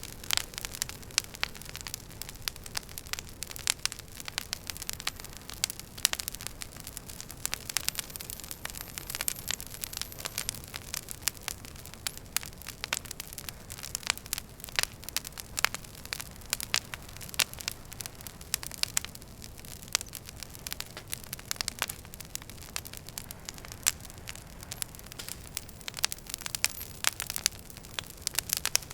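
Wood fire burning in a fireplace, with irregular sharp crackles and pops over a soft steady hiss.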